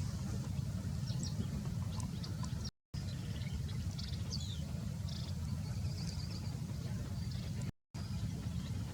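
Small birds chirping in short, high, scattered notes over a steady low rumble, with two brief total dropouts where the sound cuts out.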